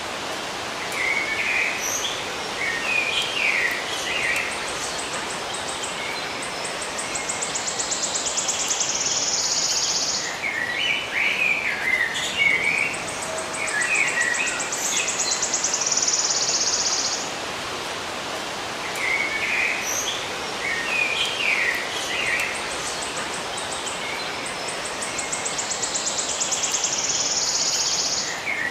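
Birds chirping in short clusters of quick notes, with a high, fast-pulsed insect trill swelling and holding, over a steady background hiss. The same sequence of chirps and trill comes round about every nine seconds.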